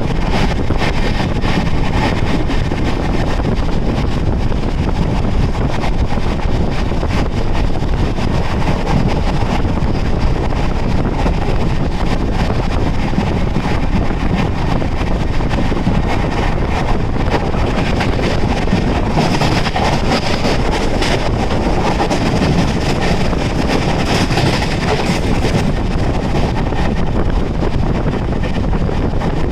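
A train running through at speed, a loud steady rush of wheels on rails with fine rapid clatter throughout, mixed with wind buffeting the microphone.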